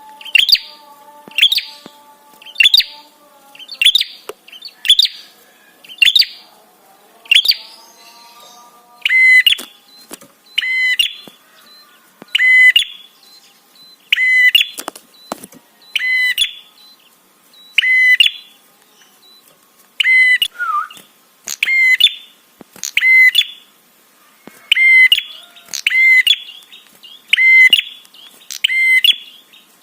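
Prenjak (prinia) calling loudly and repeatedly, a sharp chirping call about one and a half times a second. About nine seconds in it switches to a different, ringing call type repeated about once a second. This is lure-call ('trapi') song meant to provoke other prenjak to answer.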